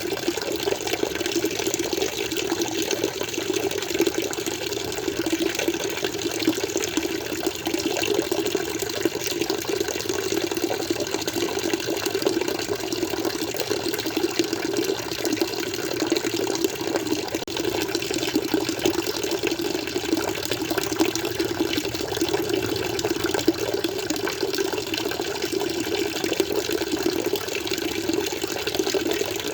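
Water flowing steadily, an even, unbroken rush with no pauses or changes.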